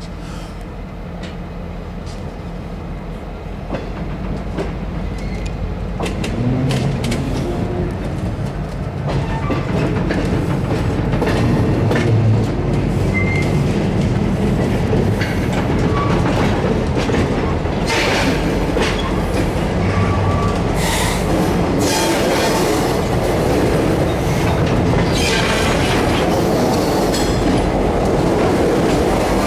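Freight train gondola cars rolling past close by, wheels clicking over the rail joints with a few short wheel squeals. It grows louder over the first several seconds, then holds steady.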